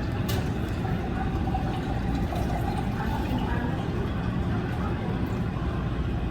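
Airbus A321 jet airliner giving a steady low rumble during departure, with a faint hum running through it.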